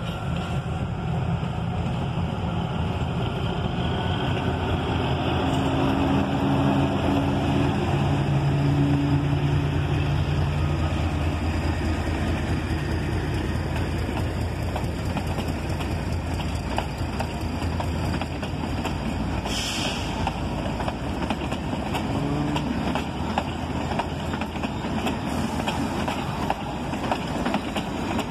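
Narrow-gauge diesel train passing close by. The locomotive's diesel engine runs loud and steady as it goes past. Then the passenger coaches roll by with a rapid clatter of wheels on the track, and a short hiss sounds about two-thirds of the way through.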